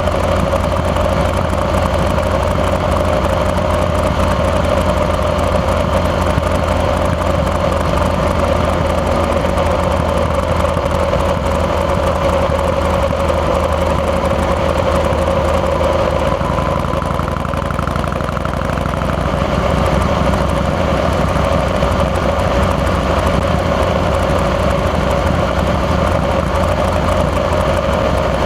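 Harley-Davidson Fat Boy's Twin Cam 88 air-cooled V-twin running steadily on the move, a deep continuous rumble, easing slightly about two-thirds of the way through and then picking back up.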